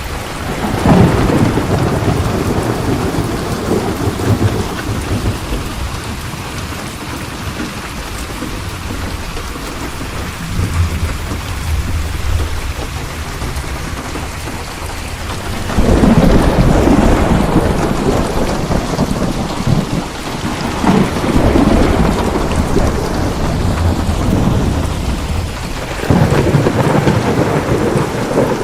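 Steady heavy rain falling, with rolls of thunder rumbling in several times: near the start, about halfway through, and twice more toward the end.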